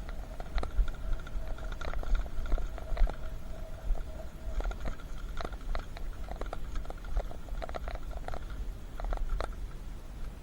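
Electric bike being ridden over a rough track: a steady whine, strongest in the first few seconds, with many sharp clicks and rattles and a low wind rumble on the microphone.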